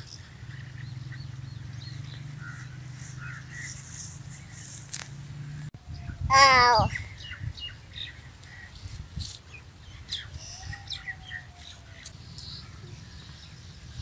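Small birds chirping on and off, short scattered chirps, with one louder wavering call about six and a half seconds in.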